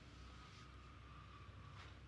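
Near silence: room tone with faint hiss, and a faint brief rustle near the end.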